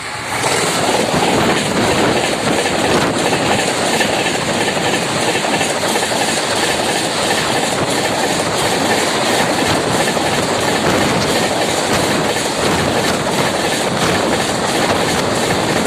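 Express passenger train rushing past close by at about 130 km/h. Its noise jumps up suddenly about half a second in, then holds as a loud, steady rush and rumble with rapid wheel clatter from the passing coaches.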